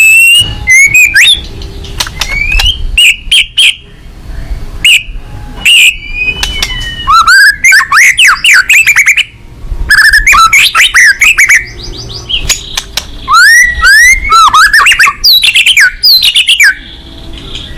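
White-rumped shama (murai batu) singing loudly in full song: phrases of rapid rising and falling whistles, fast trills and sharp clicking notes, split by short pauses.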